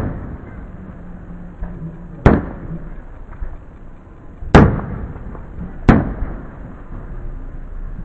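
Aerial firework shells bursting overhead: three loud bangs at uneven gaps, each trailing off in an echo.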